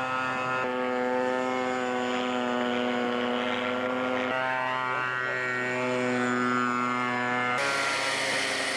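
Model airplane engines running steady in flight, a continuous droning tone whose pitch shifts abruptly three times, with a hiss joining near the end.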